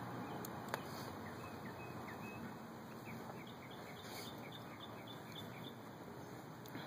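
Quiet outdoor background hiss with a small bird chirping a run of short, high, falling notes, several a second, through the middle; a single sharp tick comes under a second in.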